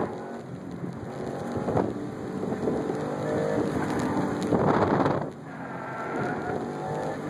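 2004 Subaru WRX STI's turbocharged flat-four heard from inside the cabin, driven hard: its note climbs in pitch under acceleration, drops back about two seconds in and again about five seconds in, then climbs once more, over a steady rumble of road and wind noise. A louder burst of rumbling noise comes just before five seconds in.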